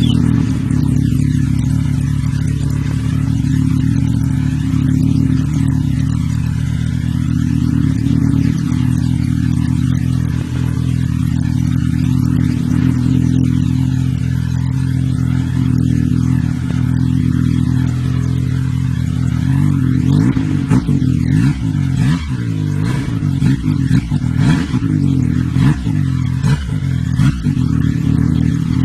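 Yamaha Sidewinder snowmobile's turbocharged 998 cc three-cylinder four-stroke engine running through an aftermarket stainless steel muffler can. It idles steadily, then is revved in a series of short throttle blips, rising and falling, over the last several seconds.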